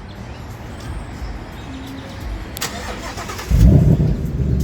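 Sports car engine being started: a short burst of starter noise about two and a half seconds in, then the engine catches with a loud flare about a second later and settles into a steady idle.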